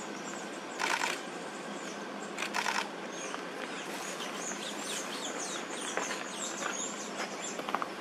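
Wild birds chirping in the forest background, many short high calls from about three seconds in, with two brief rustling bursts about one and two and a half seconds in.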